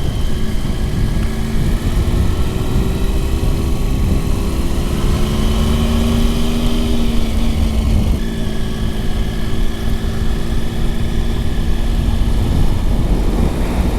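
Motorcycle engine running at steady cruising speed with heavy wind rush on the helmet microphone; the engine note rises a little, dips briefly about eight seconds in, then carries on.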